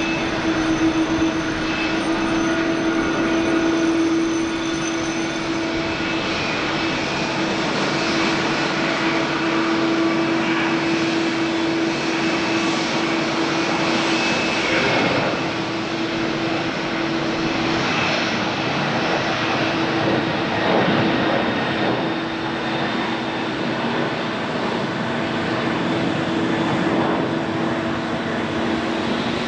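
Jet engines of a Boeing 767-300ER airliner running steadily, a constant whine over a broad rush.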